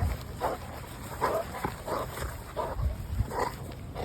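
American Pit Bull growling in short bursts, about two a second, while tugging on a toy in a game of tug of war.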